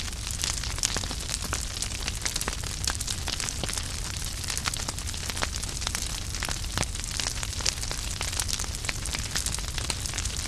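Wood fire crackling in a fireplace: many quick, irregular snaps and pops from the burning logs over a steady low rumble and hiss of the flames.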